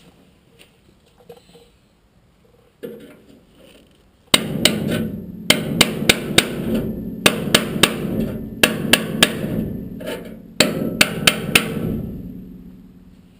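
Hammer blows on sheet steel as a repair panel is bent and shaped: a few light knocks, then from about four seconds in, quick runs of sharp ringing strikes, about three or four a second, in several bursts with short pauses, fading out about a second before the end.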